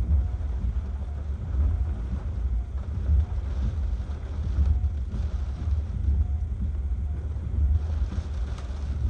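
Strong Hurricane Ian winds gusting against the microphone, a heavy buffeting rumble that swells and eases.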